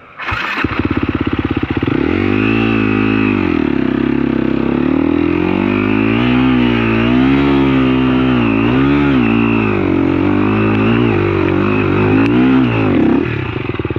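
Dirt bike engine, close by, coming in suddenly about half a second in and then revving up and down over and over, throttle worked hard, before easing off about a second before the end.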